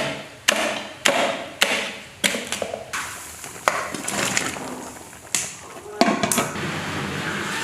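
A series of sharp knocks, roughly two a second at first and then more irregular, like a blade or utensil striking a hard surface. About six seconds in they give way to a steady hiss like rain.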